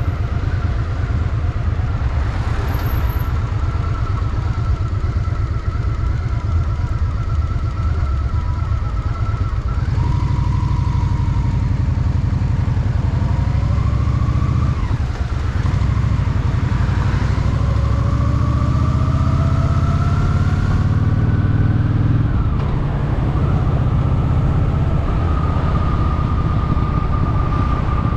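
Honda Shadow VT750's V-twin engine running under way, its note rising steadily as the bike accelerates in the middle and dropping back a little over two-thirds through before running steady again.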